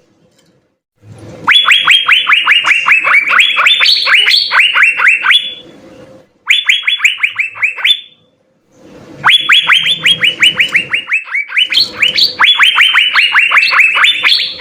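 Asian fairy-bluebird (cucak biru) singing in full voice: long runs of quick, sharp whistled notes, each dropping in pitch, about six a second. The song comes in three bursts broken by short pauses.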